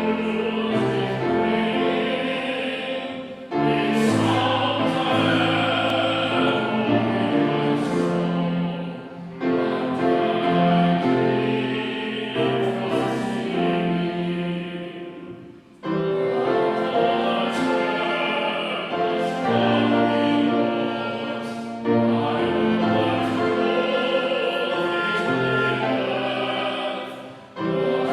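Congregation singing a hymn with sustained notes, line by line in phrases of about six seconds, with a brief breath-pause between lines.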